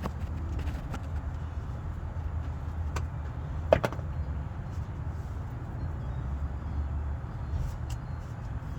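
Hand-tool work under a car: a steady low rumble, a light click about three seconds in, then a sharp knock just before four seconds, as the gear shifter's main bolt is being fitted from underneath.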